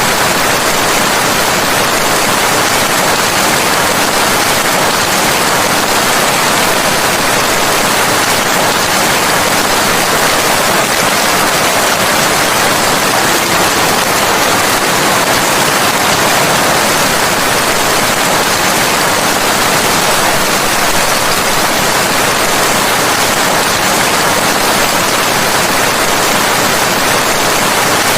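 Steady heavy rain, a dense even hiss with no separate drops or thunder standing out.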